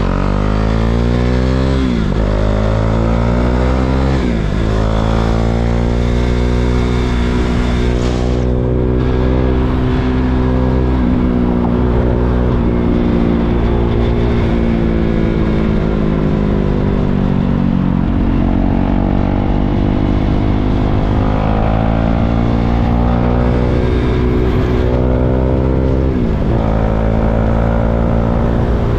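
KTM 390 Duke's single-cylinder engine pulling up through the gears, its pitch rising and dropping at each quick upshift near the start. It then holds a steady cruise, eases off, and accelerates again, with another drop in pitch near the end.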